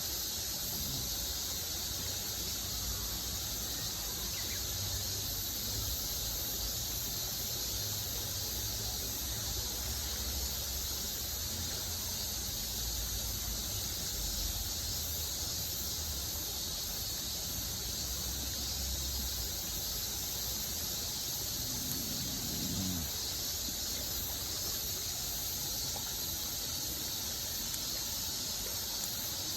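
Steady outdoor ambience: a high, unbroken insect chorus, with a low rumble underneath for the first two-thirds.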